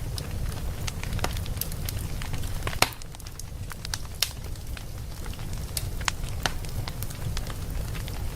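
Wood fire in a fireplace crackling, with irregular sharp pops over a steady low rumble. Two louder pops come a little under 3 s and just past 4 s in.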